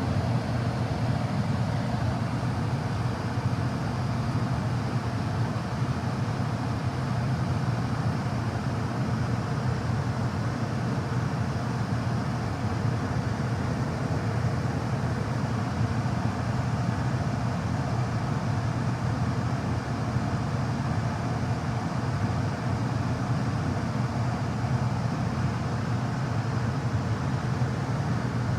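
Comfortmaker gas furnace running on test: a steady, unchanging mechanical noise with a low hum.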